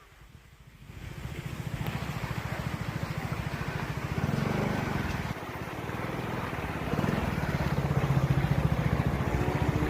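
Aeroplane engine noise: a steady rumble with a fast, even pulsing that builds up about a second in and holds. A rising whine starts to come in near the end.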